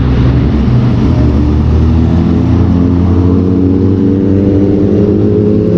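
KTM RC 390's single-cylinder engine pulling under acceleration while riding, its note climbing steadily from about two seconds in, with wind rush over the helmet-mounted microphone.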